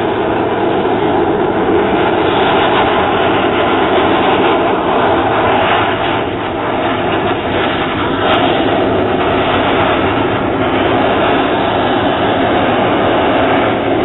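Pratt & Whitney R-985 radial engine of a propeller aerobatic airplane running steadily at power, heard as a loud, even drone.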